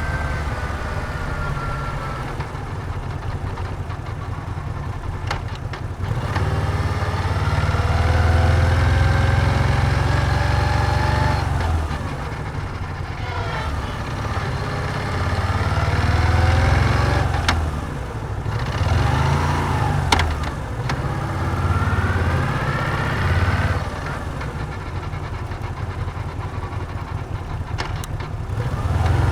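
Moto Guzzi V7's air-cooled transverse V-twin running under way. It rises in pitch under throttle several times, drops back at each gear change, and settles into quieter, lower stretches off the throttle between pulls. There is one sharp click about two-thirds of the way through.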